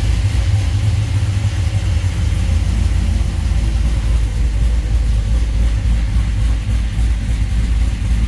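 Chevrolet 5.3L L59 V8 with a Brian Tooley Racing Truck Norris camshaft idling steadily with a deep low rumble, on its first start and still untuned.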